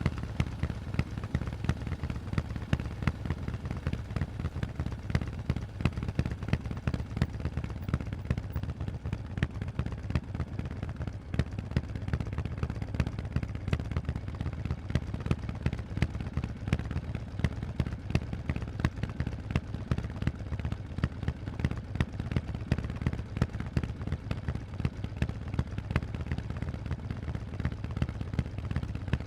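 Harley-Davidson Forty-Eight's 1200 cc air-cooled V-twin running through Vance & Hines exhausts while being ridden, a continuous stream of sharp exhaust pulses at a fairly steady engine speed.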